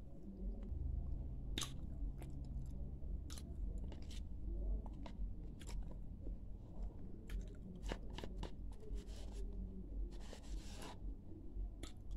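A person chewing dry edible clay close to the microphone: scattered crisp crunches and mouth clicks, with a longer, denser crunch about ten seconds in.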